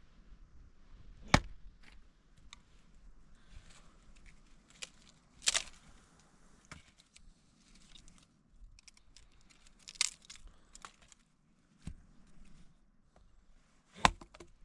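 Four loud, sharp knocks or strikes about four seconds apart, with smaller clicks, crackling and rustling in between.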